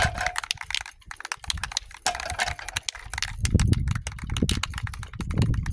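Aerosol spray can of primer being shaken, its mixing ball rattling in rapid, irregular clicks, with a few heavier knocks in the second half.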